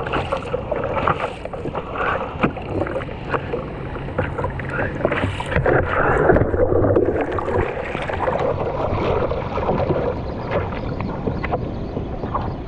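Sea water splashing and sloshing against a surfboard, with frequent small sharp splashes and a swell of water noise about six seconds in.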